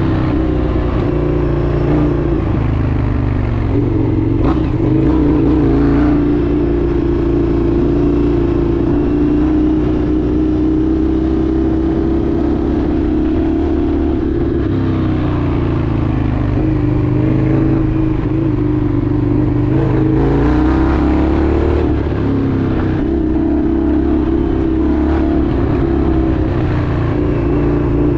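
Indian FTR 1200's V-twin engine running while the motorcycle is ridden, its note holding steady with slight dips and rises as the throttle changes.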